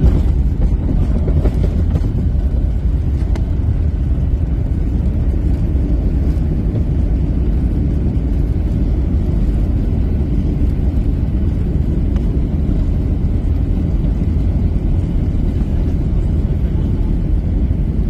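Steady, loud low rumble of a Boeing jet airliner heard from inside the cabin, with a few faint knocks in the first few seconds.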